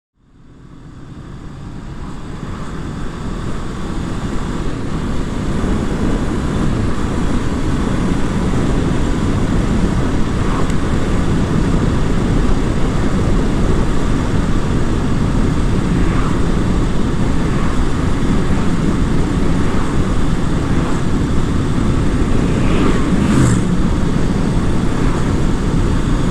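Honda CB500F's parallel-twin engine and steady wind rush heard from the moving motorcycle, fading in over the first few seconds.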